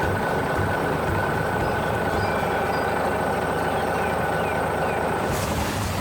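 Steady engine noise of a vehicle or machine, with a thin high whine on top, holding level throughout and cutting off at the end.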